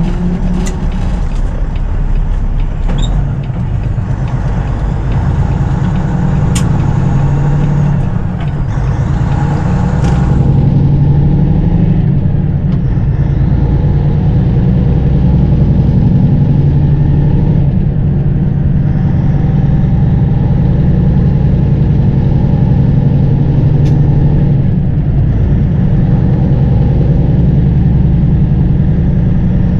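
Peterbilt 579 semi truck driving, its diesel engine running steadily under a spread of road noise, with a few light clicks in the first ten seconds.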